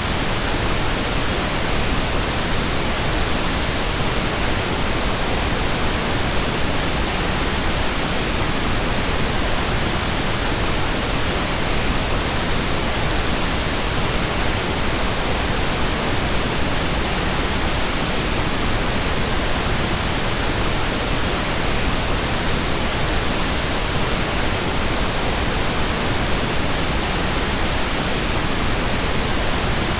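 Pink noise: a steady, even hiss spread across all pitches, weighted toward the low end, unchanging throughout.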